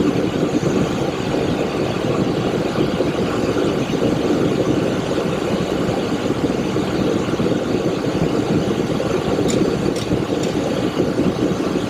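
Steady cockpit noise of a Boeing 727-200 in the climb after takeoff: airflow and engine noise. A few faint ticks come about ten seconds in.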